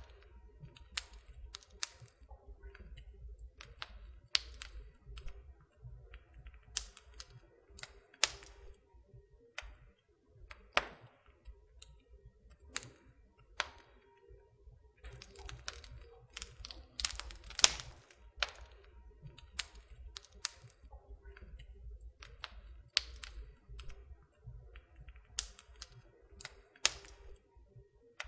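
Wood fire in a fireplace crackling: irregular sharp pops and snaps over a faint low rumble, with a cluster of louder pops a little past the middle.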